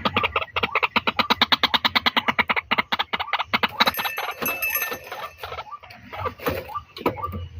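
White-breasted waterhen calling: a fast run of harsh, rapidly repeated notes for about four seconds, then scattered shorter notes.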